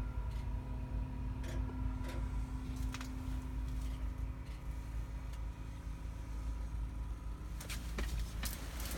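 Steady low rumble with a faint humming tone that fades out near the end, and a few light clicks and knocks. The truck's ignition is on, but the engine is not running.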